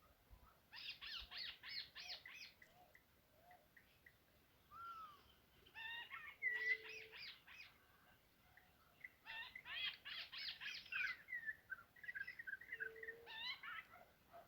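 Birds calling in three bouts of fast repeated chattering notes, with scattered single chirps between them and a short low steady note twice.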